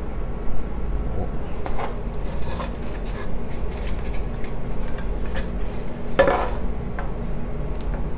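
Light clinks and rubbing from hands working biscuit dough into a baking dish, with one louder scrape about six seconds in, over a steady low hum.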